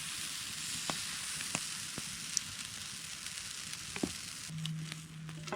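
Pancakes frying in oil on a hot pan over campfire coals: a steady sizzling hiss with a few small pops.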